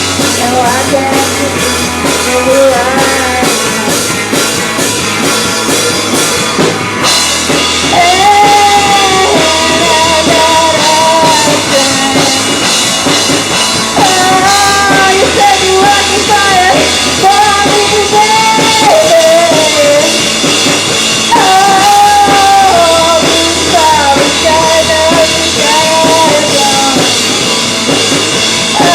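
Live rock band playing: drum kit, electric guitar and bass guitar, with a voice singing the melody. The band grows fuller and louder about seven seconds in.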